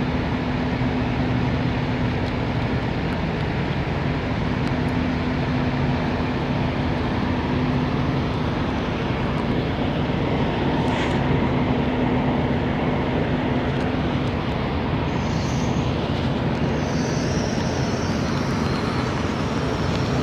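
Diesel truck engine idling, a steady low drone that holds an even pitch throughout.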